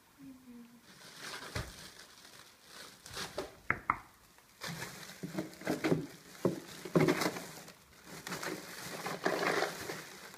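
Objects being handled at close range: irregular rustling and crinkling with scattered sharp clicks and knocks.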